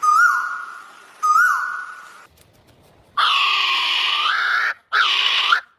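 Bird calls. First come repeated short whistles about a second apart, each with a quick pitch hook and a long fading tail. After a short pause, a longer harsh, nasal call follows, then a shorter call that dips and rises.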